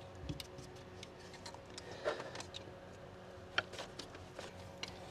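Faint, irregular clicks and taps of hand tools and metal parts during engine-bay disassembly, over a low steady hum.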